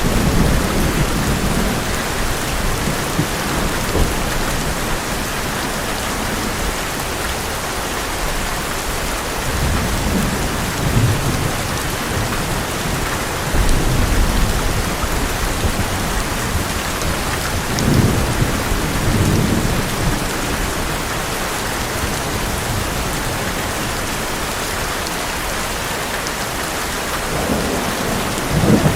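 Heavy rain falling steadily on an old metal roof, with thunder rumbling in low swells several times, near the start, around a third and halfway through, and again near the end.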